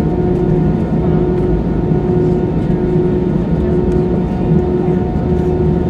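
Airbus A320 jet engines running steadily, a constant rumble with a few held tones, heard from inside the passenger cabin; the pitch and level stay even, with no spool-up.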